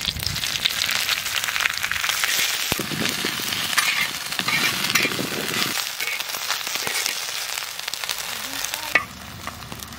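Pumpkin flowers and green chillies sizzling in hot mustard oil in a clay pan, stirred with a metal spatula. The sizzle crackles steadily, then eases about nine seconds in.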